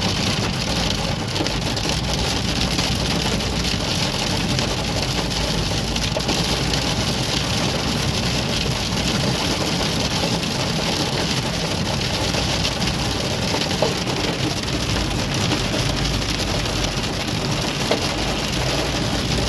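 Downpour rain falling steadily on a car as it is driven, with the engine running underneath. A couple of sharper ticks come about 14 and 18 seconds in.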